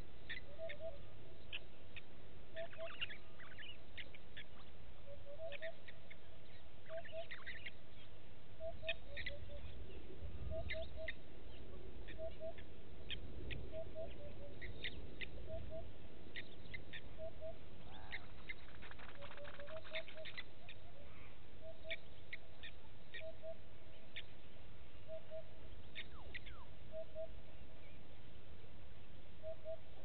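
Bush birdsong: one bird repeats a low double hoot roughly every one and a half seconds, with short high chirps from other birds scattered over it.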